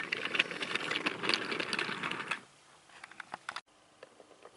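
Rapid clicking and rattling for about two and a half seconds, then a few scattered clicks, cut off sharply about three and a half seconds in.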